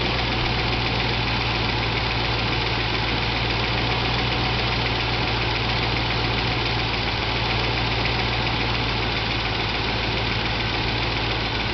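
Range Rover Classic's 3.9-litre V8 engine idling steadily at an even speed.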